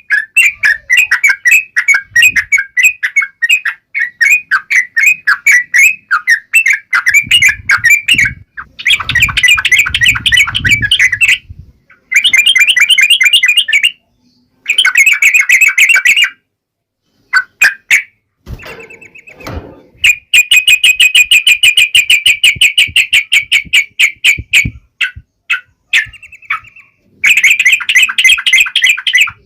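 Yellow-vented bulbul (trucukan) singing loudly in rapid, chattering phrases of a few seconds each, broken by short sudden pauses.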